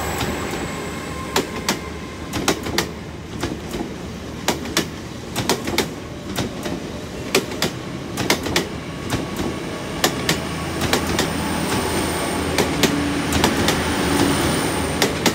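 Class 800 IET train moving out of the station, its wheels clicking irregularly over rail joints and points, over a low steady hum.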